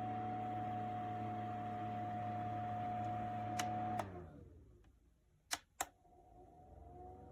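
Small USB desktop evaporative cooler's fan running with a steady whine. It is switched off with two clicks about four seconds in, the whine falling as the fan spins down. Two more clicks follow and it spins back up with a rising whine.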